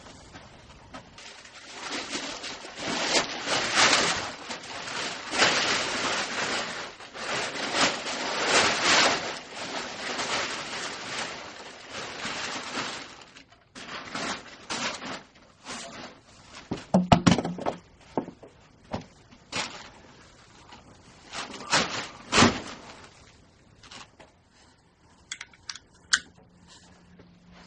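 Indistinct scraping and rattling for about twelve seconds, then a handful of separate sharp knocks or thuds, the two loudest about 17 and 22 seconds in.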